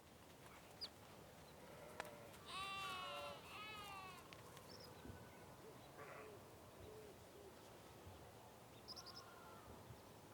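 Alpaca humming: two short wavering hums a few seconds in, with fainter hums later and a few short bird chirps over a quiet background.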